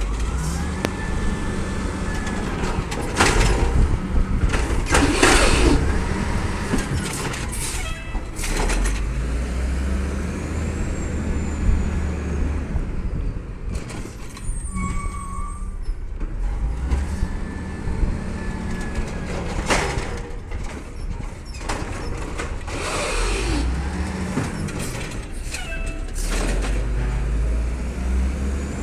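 Garbage truck working its route: the diesel engine revs in repeating cycles while a hydraulic whine rises and falls with each cycle. Loud, sharp bangs and hisses come throughout, from bins being dumped and from the brakes.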